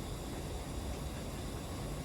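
Steady background noise: a low rumble with a faint hiss over it, unchanging and without distinct events.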